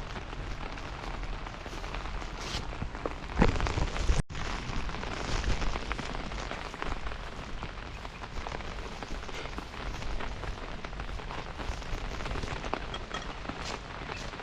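Steady rain falling, with many small drop ticks through it and one louder knock about three and a half seconds in.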